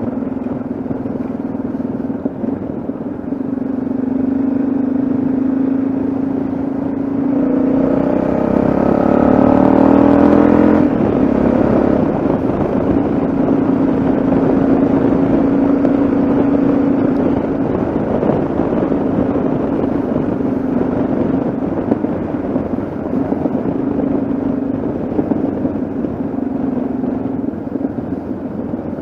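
Yamaha XT660Z Ténéré's single-cylinder four-stroke engine running steadily at cruising speed over road and wind rush. About eight seconds in the revs climb for a few seconds, then drop sharply at about eleven seconds before settling back to a steady pitch.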